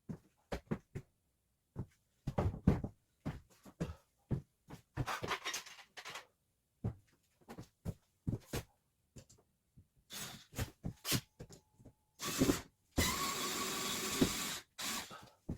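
Scattered knocks, clunks and handling clatter from work on plywood ceiling panels, with a steady rushing noise for about two seconds near the end.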